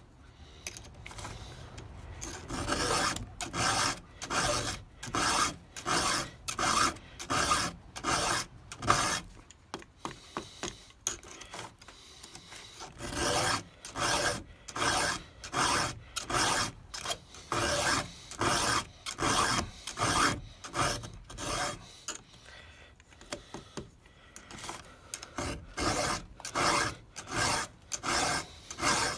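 A 4 mm round file sharpening the cutting teeth of a Stihl 200T chainsaw chain, in repeated rasping strokes about one and a half a second, with two short pauses.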